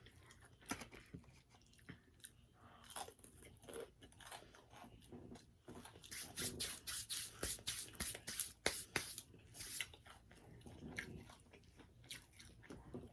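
Close-miked mouth chewing and biting into crispy fried food, with crisp crunches that come thickest and loudest about six to ten seconds in.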